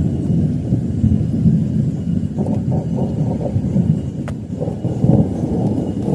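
Thunder rumbling in a low, continuous roll through a rainstorm.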